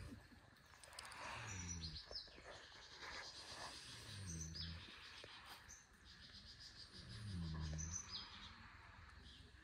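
Birds chirping with short, high calls, over a low, pitched sound that comes three times, about every three seconds, and a faint hiss.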